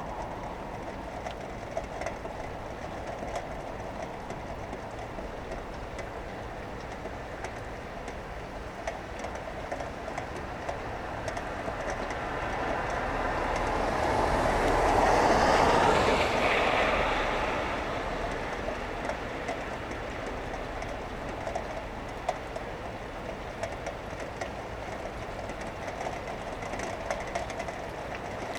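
Steady rain, with one vehicle passing by on the wet road: its tyre hiss swells to a peak about halfway through, then fades away.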